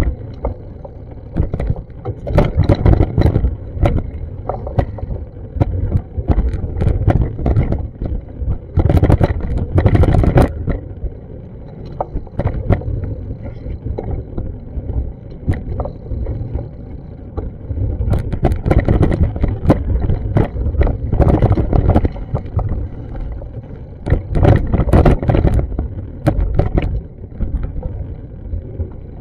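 Wind buffeting an action camera's microphone: a loud, uneven low rumble that swells and fades in gusts, with occasional crackles.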